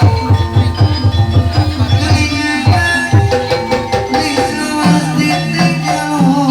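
Live kuda lumping ensemble music: fast kendang hand-drum strokes over tuned gamelan-style metal percussion playing a repeating melody.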